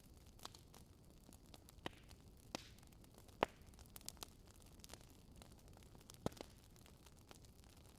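Wood fire burning in a fireplace, crackling faintly with scattered sharp pops over a low hiss; the loudest pop comes about halfway through.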